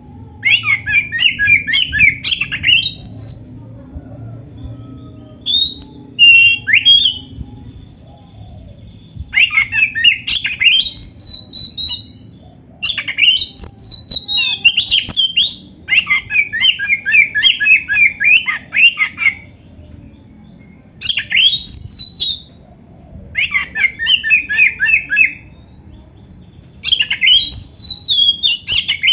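Oriental magpie-robin (kacer) singing in repeated bouts of fast, harsh, chattering phrases, each lasting one to a few seconds with short pauses between, in full song with mimicked fill notes.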